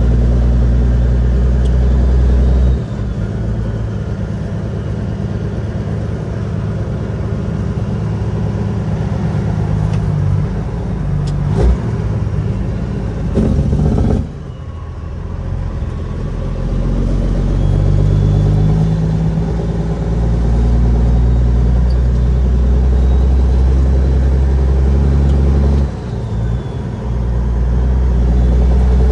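Caterpillar 6NZ diesel engine of a Kenworth W900L truck loaded with 50 tons of molasses, running hard under load. Its deep steady note drops away briefly three times and comes back.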